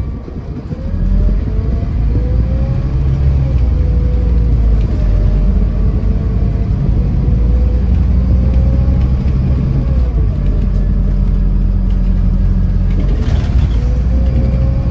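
Scania coach engine pulling under load, heard on board, with a drivetrain whine that rises and drops back with each gear change. There is a brief hiss near the end.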